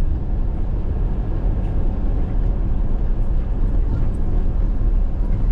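Steady road and engine noise of a moving car heard from inside, with a heavy low rumble.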